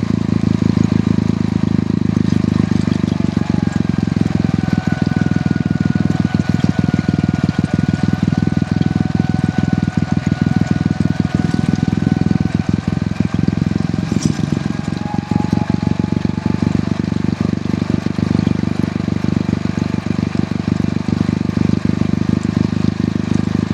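Hero Honda CD100 motorcycle's small single-cylinder four-stroke engine running steadily under way, with fast even firing pulses.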